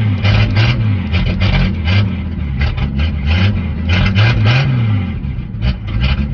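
Pull-start engine of an old truck running unevenly, its revs rising and falling several times as the throttle is worked to keep it going; it will not yet settle into an idle.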